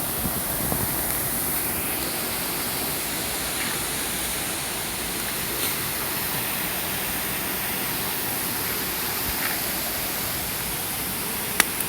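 Campfire burning with a steady hiss, broken by a few sharp crackles and pops, the loudest just before the end.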